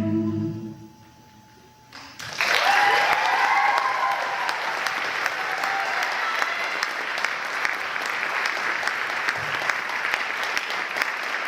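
The ensemble's last held chord fades out. After a short pause, audience applause bursts in about two seconds later, with cheering whoops at first, and carries on steadily.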